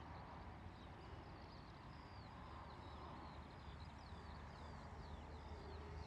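Faint birdsong: many short chirps and downward-slurred whistles, one after another, over a low steady background rumble.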